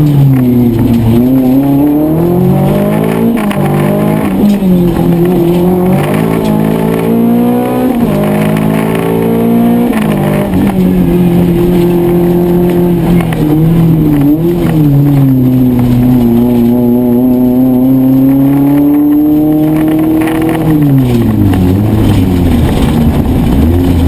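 Rally car engine heard from inside the cabin, revving hard. The pitch climbs through each gear and drops back at every shift, holds fairly steady over two longer stretches, then falls away a few seconds before the end as the car slows.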